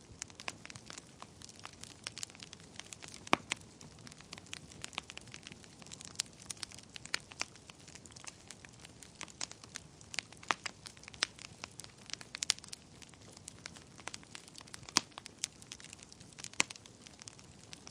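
Wood fire burning in a fireplace, crackling and popping irregularly over a low steady hiss, with a few sharper pops.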